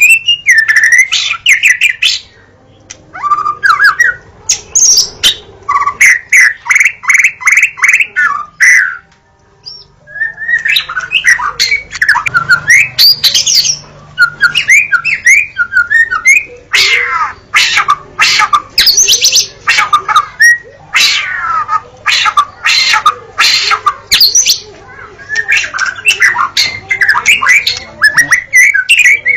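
White-rumped shama (murai batu) singing a loud, varied song: whistled phrases that glide up and down, rapid trills of repeated notes, and sharp clicking notes, broken by two short pauses.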